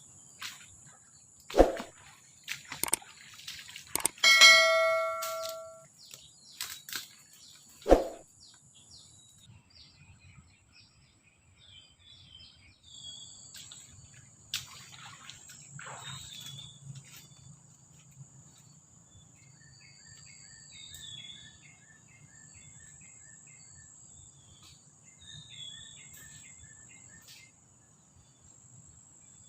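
A few sharp knocks and one ringing metal clang that dies away over about a second and a half, in the first eight seconds. Then forest ambience: a steady high insect drone with scattered bird chirps and a run of quick, evenly spaced insect or bird pulses.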